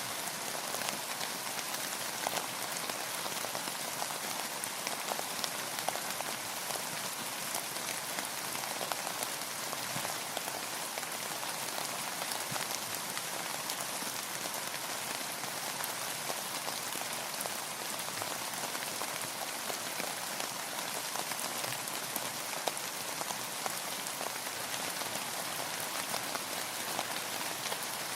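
Steady rainfall, a dense patter of many small drops hitting a surface without a break.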